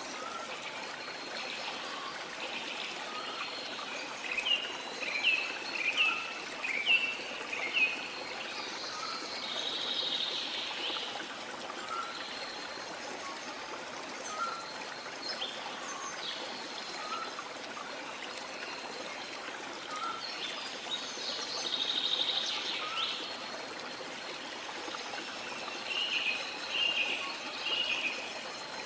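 Steady rush of waterfall water with birds calling over it: a run of short, downward-sliding chirps about four seconds in, buzzy calls around ten and twenty-two seconds, and more chirps near the end, with faint short notes repeating every couple of seconds.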